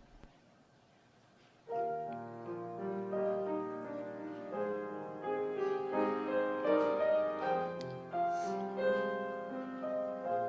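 Piano comes in about two seconds in, after near quiet, playing a flowing melody over sustained chords.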